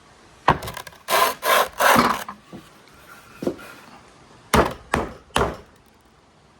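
Marbles rolling and clattering along a marble run track in a string of short rattling runs. The longest run comes about a second in, and three sharper clatters follow near the end.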